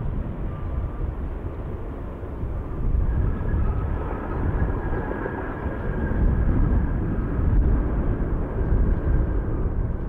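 Jet airliner's engines rumbling as it passes, with a steady turbine whine coming in about three seconds in and the noise swelling a little past the middle.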